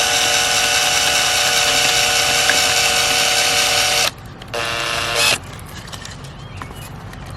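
Electric drill running for about four seconds, then briefly again at a lower speed, as it enlarges the twine holes in a dried birdhouse gourd's shell.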